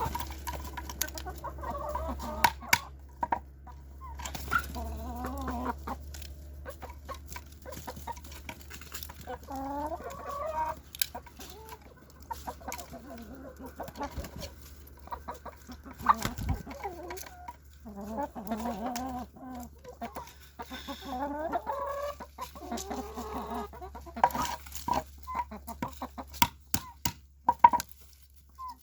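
Domestic chickens clucking and calling in repeated bursts, with many sharp taps and clicks scattered among the calls.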